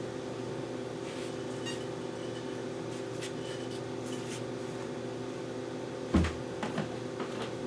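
Steady low hum, with a dull thump about six seconds in followed by a few light knocks.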